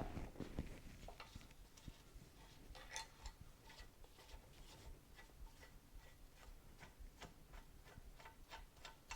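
Faint, light metallic clicking of loose steel steering-head bearing balls being picked out with a magnet, a few small ticks a second at uneven spacing.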